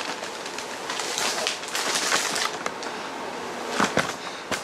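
Rustling and handling noise, loudest about one to two seconds in, with a few sharp knocks near the end.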